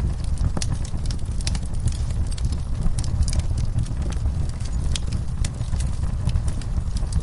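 Wood fire crackling in a fireplace: a steady low rumble of burning with many quick, irregular pops and snaps of the logs.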